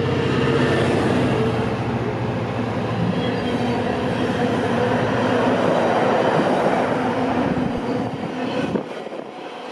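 Freightliner Class 66 diesel locomotive 66589, with its two-stroke V12 engine, passing at speed. Its engine note is heard in the first few seconds, then the steady rumble of its container wagons rolling by, which falls away near the end.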